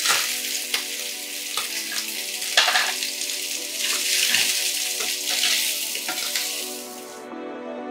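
Soya chunks frying in a little oil in a nonstick pan, sizzling, while a wooden spatula scrapes and turns them in strokes about once a second. The sizzle cuts off suddenly near the end.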